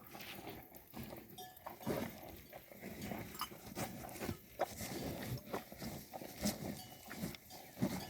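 An animal eating: irregular crunching and clicking as it chews and feeds.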